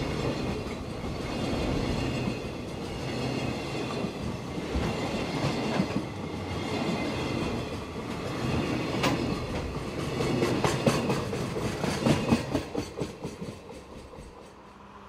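A freight train of loaded container wagons rolling past, its steel wheels clattering over the rail joints. Near the end comes a run of quick clicks as the last wagons pass, then the noise fades away.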